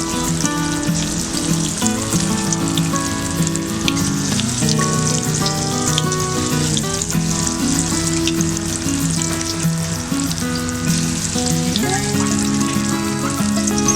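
Tahu walik frying in hot oil: a steady sizzle with small, frequent crackles, under background music with a melody.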